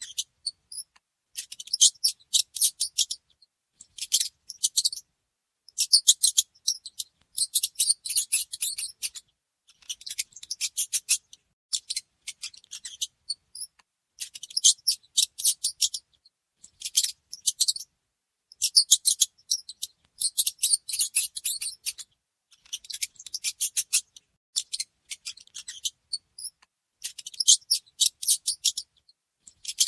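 Mice squeaking and chittering in rapid high-pitched bursts, each burst lasting about a second, with short silent gaps between.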